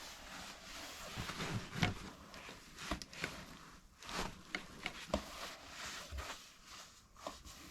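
Rustling with scattered light knocks and clicks as fallen bird-nest debris, sticks and soft wool bedding, is handled.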